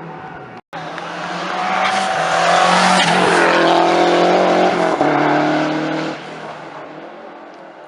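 Historic rally car passing at speed, its engine revving hard. After a brief dropout near the start, the engine builds up, is loudest in the middle, and fades away after about six seconds.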